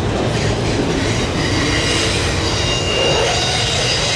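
Freight train cars rolling past on a curve: a steady rumble of wheels on rail, with high-pitched steel wheel squeal setting in about a second and a half in.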